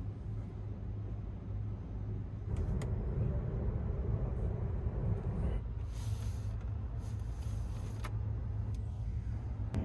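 Interior running noise of a Sunrise Izumo 285-series electric sleeper train under way: a steady low rumble of wheels on rail, getting louder about two and a half seconds in, with a couple of light clicks.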